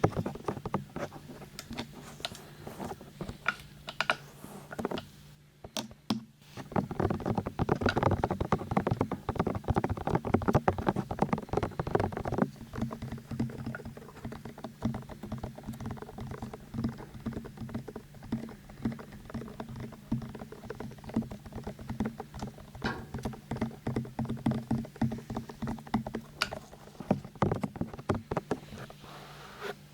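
Rapid, light fingertip tapping and scratching close to a binaural microphone: a dense run of small clicks, broken by a short pause about six seconds in and busiest and loudest between about seven and twelve seconds. A steady low hum runs underneath.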